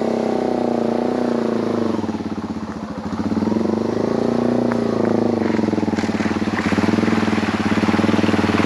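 Yamaha TW200's single-cylinder four-stroke engine running hard under throttle through mud, its revs dipping a few seconds in and then climbing back up.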